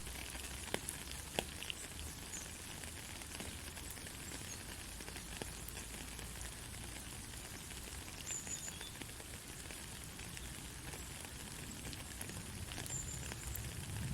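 Gentle rain falling steadily, a soft even hiss with scattered ticks of individual drops. A few brief high-pitched chirps come through faintly, the clearest around the middle and near the end.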